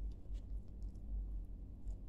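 Faint wet mouth clicks from chewing a mouthful of moistened clay, a few soft clicks over a steady low rumble.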